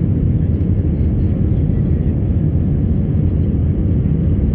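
Steady low rumble of an Airbus A319 jet airliner's engines and airflow, heard from inside the cabin during take-off.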